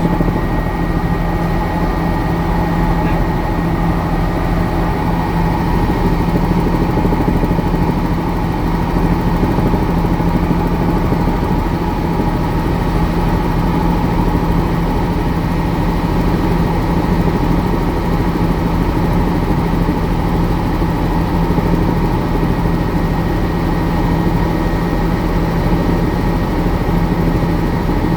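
Helicopter engine and rotor noise, loud and steady, with a strong low hum and a thin high whine over it.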